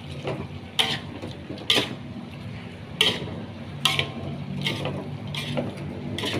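A spatula stirring food in a frying pan, scraping and knocking against the pan with sharp clinks a little under once a second.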